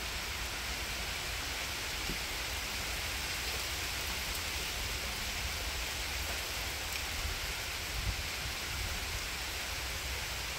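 Steady light to moderate wind-driven rain, an even hiss with a deep steady rumble underneath.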